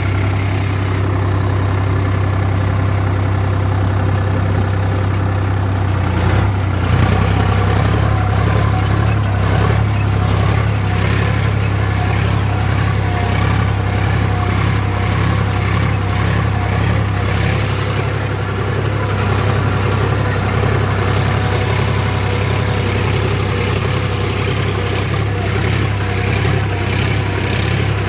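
Sonalika DI 35 tractor's diesel engine running steadily, pulling a harrow. Its note shifts and grows fuller about seven seconds in.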